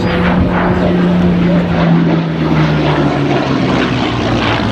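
V12 piston engine of a Second World War fighter flying past, its engine note sliding down in pitch as it goes by, with a further drop about three and a half seconds in.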